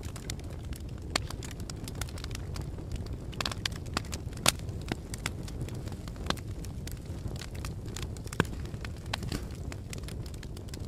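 Fire crackling: a steady low rumble of flames under frequent sharp pops and snaps, the loudest about four and a half seconds in and again about eight seconds in.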